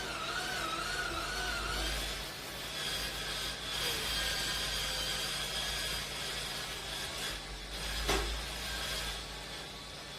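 Electric bathroom cleaning brush running and scrubbing: a motor whine that wavers in pitch at first and then holds steady, over a rasping scrub. A sharp knock about eight seconds in.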